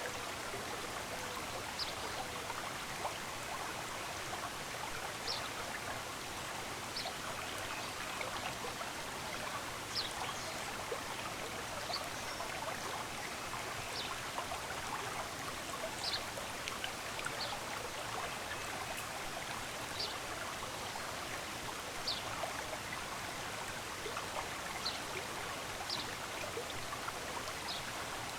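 Stream of running water flowing steadily, with short high bird chirps every second or two.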